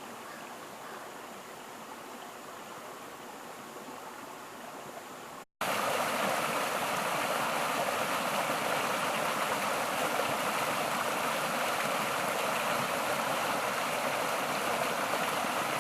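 Steady rush of flowing water from a rain-swollen stream. It cuts off abruptly about five seconds in, then comes back much louder and closer for the rest.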